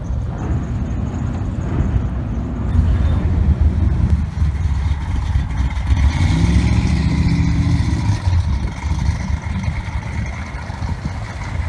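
Loud car engine running, with a pitched engine note rising from about six seconds in.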